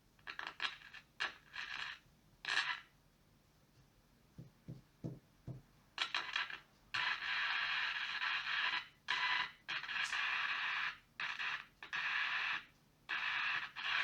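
Old Philips transistor radio's speaker giving out hiss and static that cuts in and out in bursts, with no station coming through. A few soft low knocks come about halfway through.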